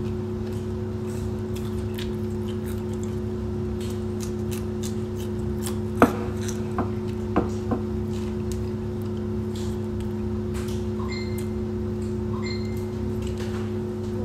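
Eating sounds: chewing and mouth clicks as rice and fish are eaten by hand. There are a few sharper clicks, the loudest about six seconds in. Under it all runs a steady low hum.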